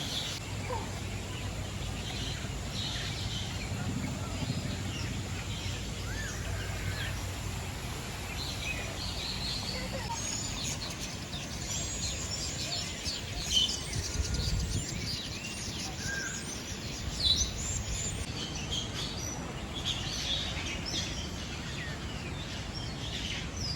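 Many birds in an aviary chirping and calling, short high calls coming thick and fast and busiest in the second half, over a steady low hum in the first part and a couple of brief louder bumps near the middle.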